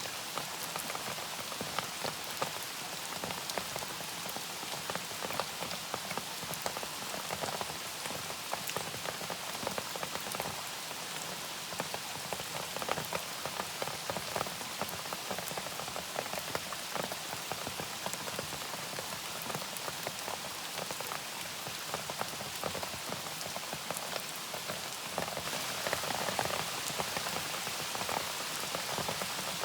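Steady rain falling, many individual drops ticking on a surface over a constant hiss, a little heavier near the end.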